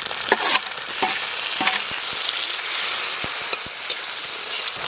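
Chopped tomatoes sizzling in hot oil with a frying spice paste in a large metal kadai, stirred with a spatula that knocks and scrapes against the pan now and then.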